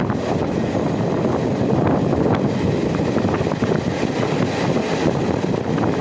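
Express passenger train running along the line, heard from on board: a steady rumble of wheels on rails with faint scattered clicks.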